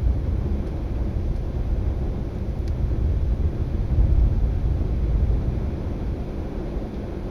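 Thunder rumbling low and rolling, swelling about four seconds in and easing off toward the end.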